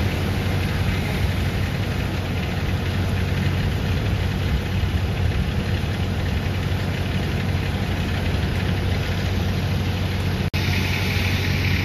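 Vehicle engine idling steadily with a low, even hum, cutting out for an instant near the end.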